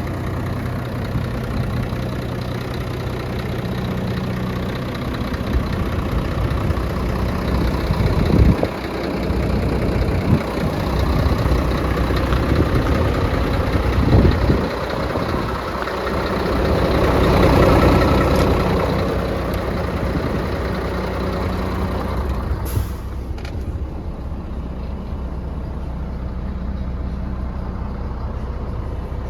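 Scania P380 truck's diesel engine idling steadily, with a few brief louder sounds about a third and halfway in, and a swell in loudness that rises and falls a little after the middle.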